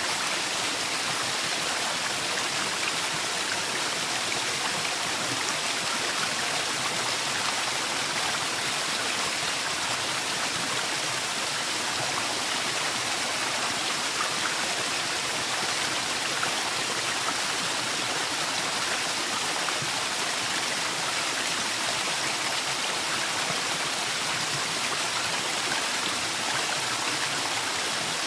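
Forest waterfall rushing steadily, a constant even hiss of falling and splashing water.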